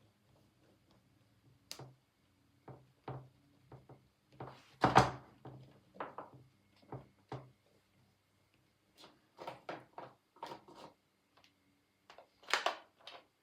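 Short scrapes and taps of painting work with gouache and oil pastel on paper, in irregular strokes. There are louder knocks about five seconds in and again near the end.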